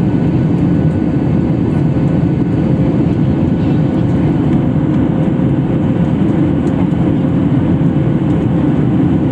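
Steady cabin noise of a Boeing 737 MAX 8 in flight: the CFM LEAP-1B engines and airflow make a loud, even rumble heavy in the low range, with a faint steady hum above it.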